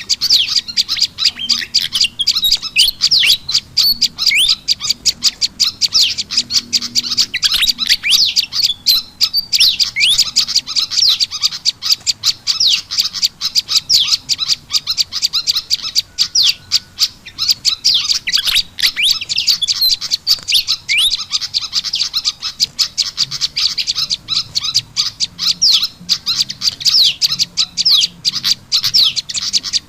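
Bird-lure recording of prenjak lumut calls mixed with noisy calls of a kipasan (fantail): a dense, unbroken chatter of rapid high chirps and sharp downward-sweeping notes, played to call small wild birds in.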